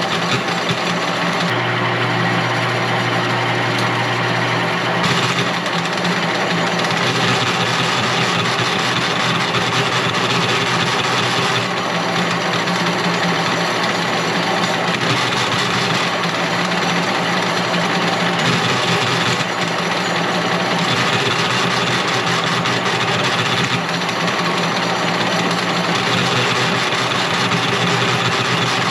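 A machine running steadily, with a low hum under a dense mechanical noise; its tone shifts abruptly every few seconds.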